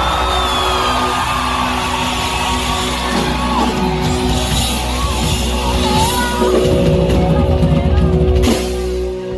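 Rock band playing live: held, ringing chords over drums, with a voice singing.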